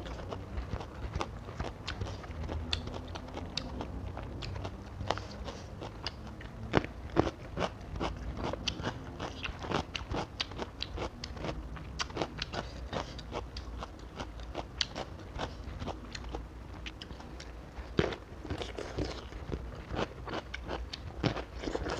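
A person biting and chewing crisp raw cucumber close to a clip-on microphone: a steady run of sharp, wet crunches, with a few louder bites spread through.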